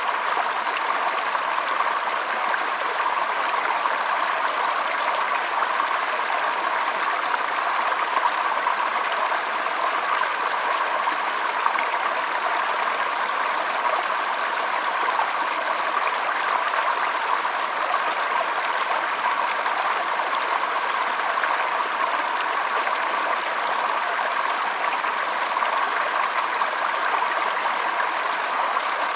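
Shallow stream flowing with a steady trickle.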